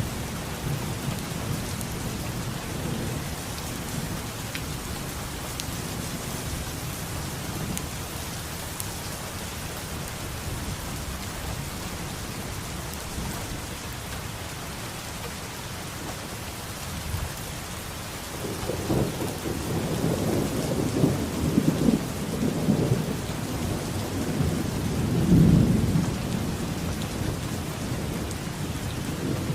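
Steady heavy rain with rolling thunder. The thunder rumbles low and fades away, then builds again past the halfway point into two louder peals near the end.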